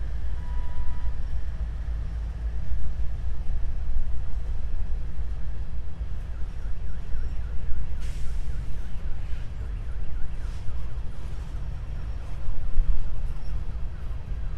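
CSX empty grain freight train rolling past: a deep, steady rumble, with faint repeated high squeals from about six seconds in and faint clicks after that.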